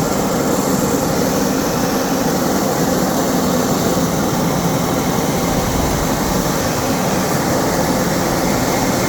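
Steady, loud mechanical drone of a moving vehicle's motor, with rushing noise, unchanging throughout.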